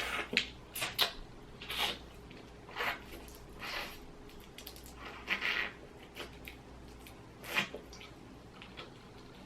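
Seasoned boiled crawfish being peeled and eaten: short wet squishes and cracks of shells, coming every second or so.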